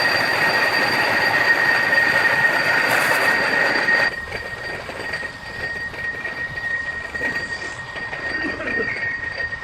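A machine running with a steady high-pitched whine over a loud hiss; about four seconds in the hiss drops off sharply while the whine carries on.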